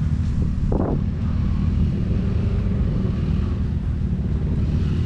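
Dirt bike engine running steadily at low revs, with a brief rush of noise about a second in.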